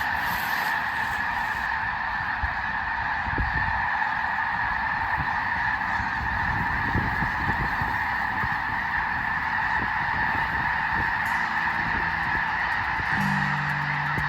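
A huge flock of snow geese calling all at once, a dense, steady din with no pauses. Music comes in faintly near the end.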